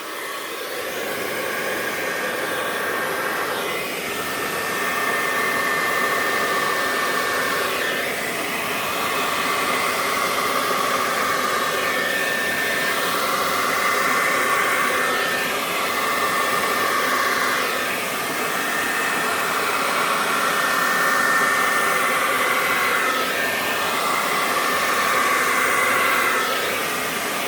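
Remington hand-held blow dryer running steadily, blowing wet acrylic paint across a canvas in a paint-pour blowout. Its whine swells and fades every few seconds as the dryer is swept over the paint.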